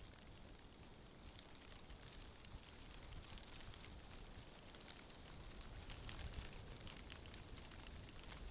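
Faint ambient wind with a low rumble and a steady soft crackling rustle.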